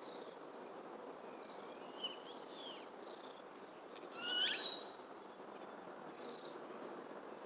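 Birds calling: a few high chirps and whistled glides about two seconds in, then a louder, ringing call lasting about half a second around the middle, over steady background noise.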